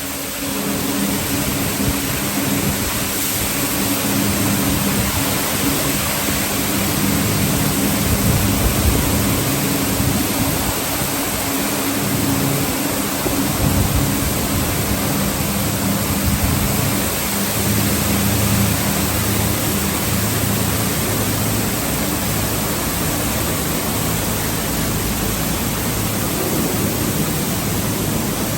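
Automatic car wash tunnel machinery running: a steady, loud rush of water spray, with a low motor and pump hum underneath.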